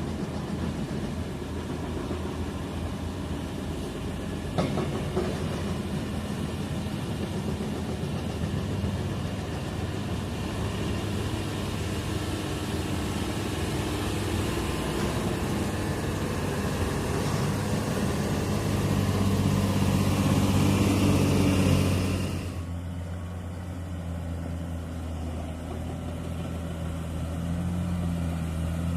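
Heavy construction-vehicle engine running steadily, with a single sharp knock about four and a half seconds in. It grows louder toward about twenty seconds in, then drops off suddenly a little after twenty-two seconds.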